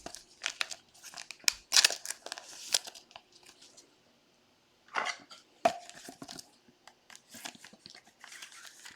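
Crinkling and rustling of trading-card packaging and plastic sleeves as cards are handled, in short irregular bursts with a brief pause about midway.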